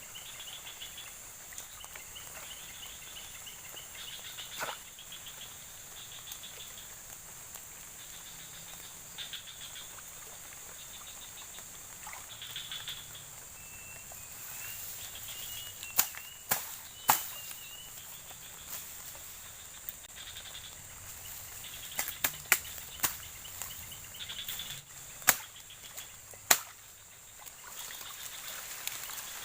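Outdoor nature ambience: a steady high-pitched insect drone with repeated short chirping calls. About halfway in, a series of sharp knocks begins, the loudest sounds in the stretch.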